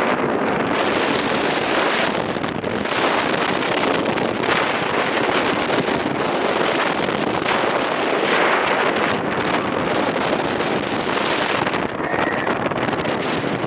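Wind rushing over a head-mounted camera's microphone on a moving roller coaster train, Steel Vengeance, a loud steady rush that swells and eases as the train runs the course.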